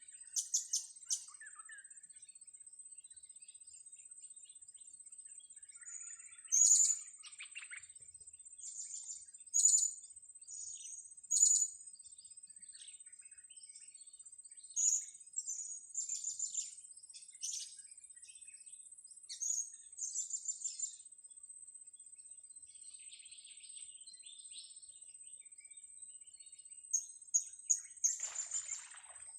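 Blue-crowned hanging parrots (serindit) giving short, sharp, very high-pitched chirps in irregular bunches. A steady thin high tone runs underneath.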